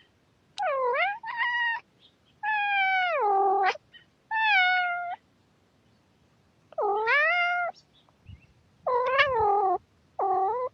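A domestic cat meowing seven times in a row, with short gaps between calls; the longer meows slide down in pitch at the end.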